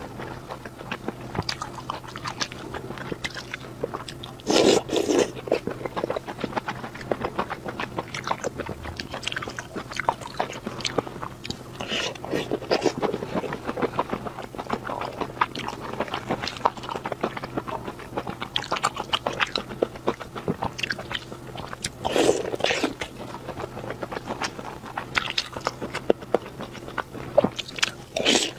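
A person biting and chewing skewered food pulled from spicy chili oil, close to the microphone: steady wet chewing clicks with a few louder bites, about five seconds in, around twenty-two seconds in and near the end.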